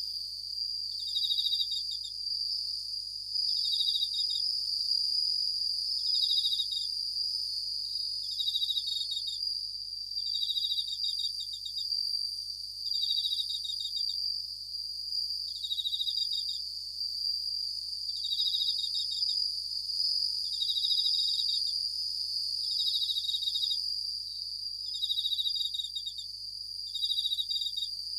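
Japanese bell crickets (suzumushi) singing: short, ringing chirps made of quick pulses repeat about every two and a half seconds over a steady high insect trill.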